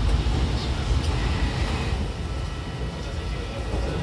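Odakyu 70000 series GSE electric train running, heard from on board: a steady low rumble of the wheels on the rails, with a faint steady whine from its full-SiC VVVF inverter drive. The level eases down slightly over the few seconds.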